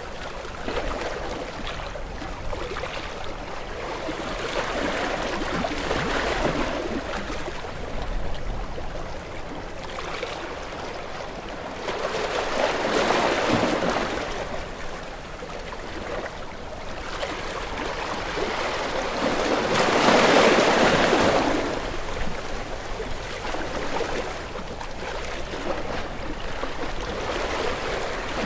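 Sea waves breaking and washing in, a steady hiss of surf that swells and fades in slow surges about every seven or eight seconds; the biggest surge comes about two-thirds of the way through.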